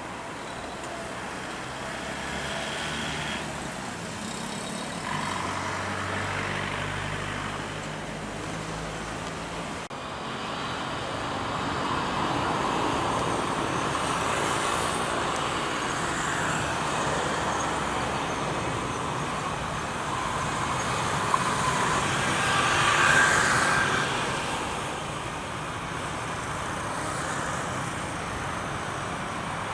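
Jet airliner engine noise swelling as the plane passes, loudest a little past two-thirds of the way through, then fading.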